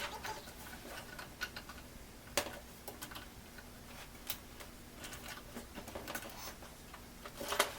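Irregular small clicks and taps of hands working screws and parts into a desktop computer case with a screwdriver, with a few sharper clicks a couple of seconds apart and the loudest near the end.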